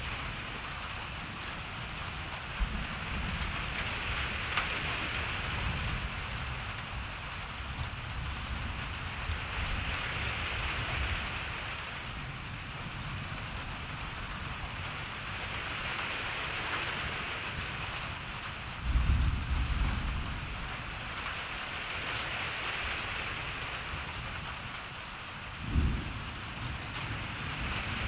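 Steady rain falling, its hiss swelling and easing, over a low rumble of distant thunder. A louder roll of thunder comes about two-thirds of the way in, and a short, sharp clap near the end.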